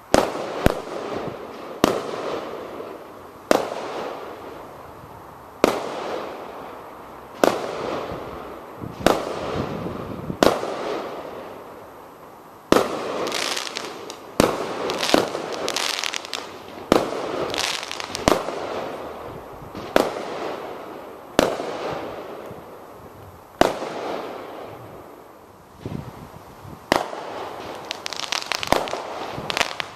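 Fireworks display: aerial shells bursting in a long series of sharp bangs, about one every second or two, each dying away slowly. Denser runs of quick pops come around the middle and again near the end.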